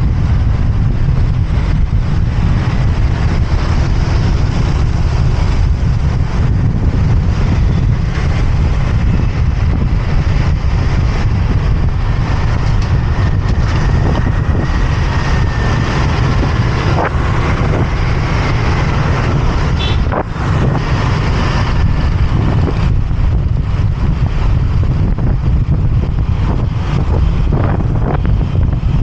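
Motorbike riding in traffic: steady wind rumble on the microphone over the bike's running engine, with one brief click about two-thirds of the way through.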